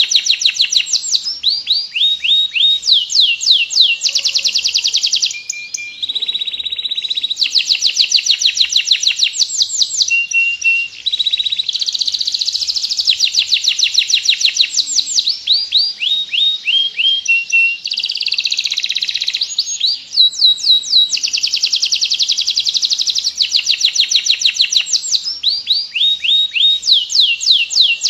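Domestic canary singing without stopping in long rolls: fast runs of rapidly repeated notes, one phrase after another, with only a few short breaks.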